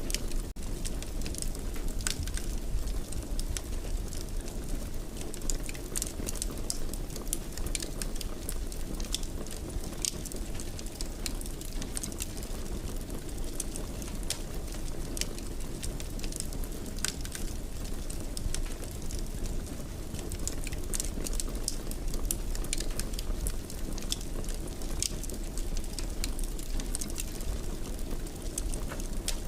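Wood fire crackling in a fireplace: a steady low rumble with frequent small sharp pops and snaps.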